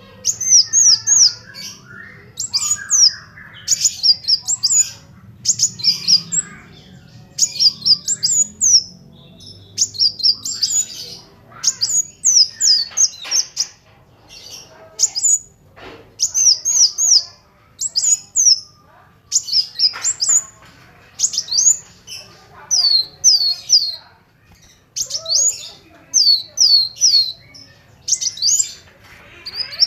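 Kolibri wulung sunbird singing: rapid, high, thin chirps in quick runs of three to five falling notes, repeated every second or so with short pauses. A fast rattling trill comes at the very end.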